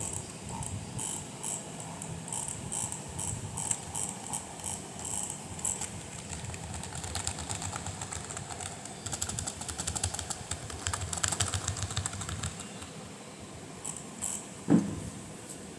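Repeated sharp mechanical clicks, about two or three a second, which turn into a fast run of clicking for a few seconds. There is one louder knock near the end.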